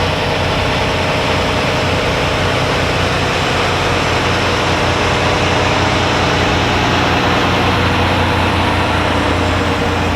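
Heavy diesel semi-truck engine running, a steady low hum with road and engine noise over it, holding even with no rise or fall in pitch.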